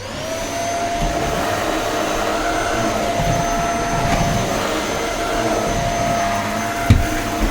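Shark stick vacuum cleaner switched on, its motor spinning up within a moment to a steady whine over the rush of air, then running steadily. A single short knock near the end.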